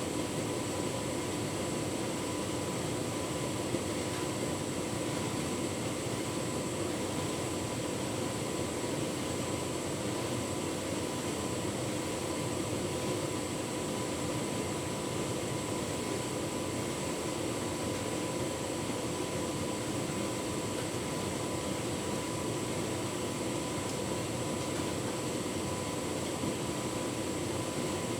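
Tumble dryer running steadily while drying a full load of bedding: an even whir from the motor, fan and turning drum, with a constant hum throughout.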